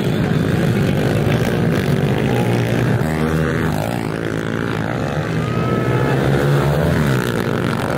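Several pit bikes racing, their small motorcycle engines revving up and down as they pass.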